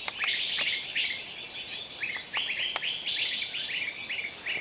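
Many small birds chirping rapidly, a dense run of short, overlapping chirps that sweep downward in pitch, with a couple of sharp ticks among them.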